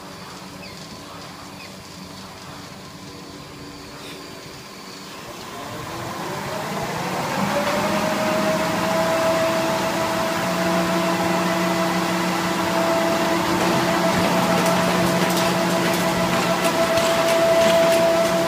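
Carton folder-gluer machine running up to speed: a low hum, then the drive's whine rises in pitch over a couple of seconds and holds steady and louder. Rapid light ticking joins near the end.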